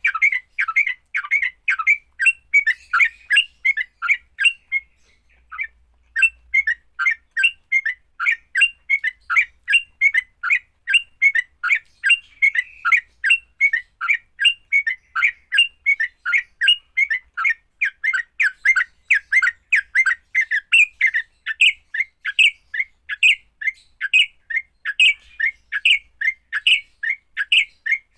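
Yellow-vented bulbul (trucuk) giving its fighting call: a rapid, unbroken series of short, harsh chattering notes, about three a second, with one short break about five seconds in.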